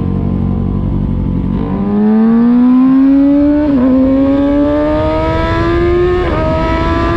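2020 Kawasaki Ninja ZX-6R's inline-four engine running steadily, then accelerating from about two seconds in, its pitch climbing. It drops briefly at two quick upshifts, about four and about six seconds in, and keeps rising after each.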